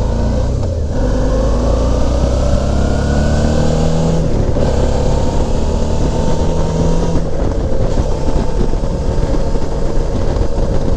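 Suzuki V-Strom 650's V-twin engine accelerating under way, its pitch climbing for about seven seconds before settling into steady running, with wind rush over the helmet microphone.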